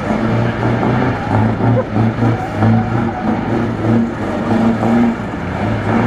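Scania V8 truck engine running loud with a deep exhaust note that keeps swelling and dipping.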